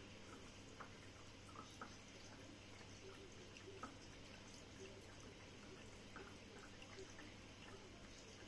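Faint water dripping and trickling inside a steam (water-mist) fireplace, a scattering of small ticks over a steady low hum.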